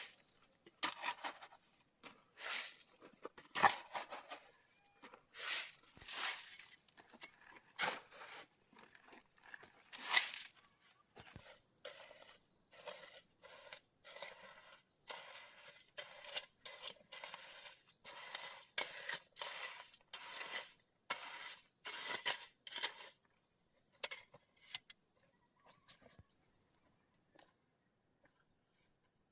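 Irregular scraping strokes, roughly one or two a second, that stop about three-quarters of the way through; faint bird chirps follow near the end.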